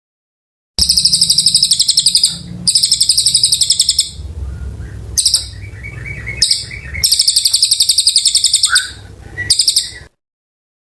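Cililin bird singing long, fast, high-pitched trilled phrases, six bursts separated by short pauses, in the steady run of song wanted for tutoring magpie-robins. The song starts abruptly about a second in and cuts off just before the end.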